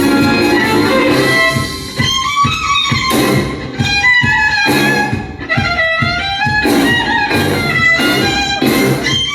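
Violin playing a melody over an accompaniment with bass and a steady beat.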